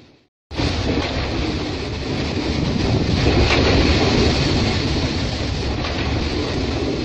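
Freight train of open coal wagons rolling past under water-spray nozzles: a steady rushing noise of wheels and spray. The sound drops out for a moment just after the start, then comes back.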